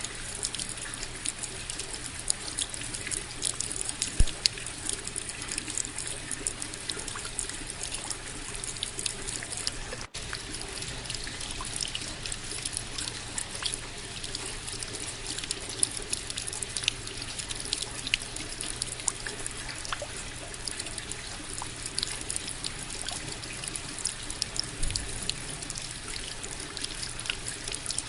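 Steady rain with a dense patter of drops and trickling water. A sharper drop lands about four seconds in, and the sound dips for an instant about ten seconds in.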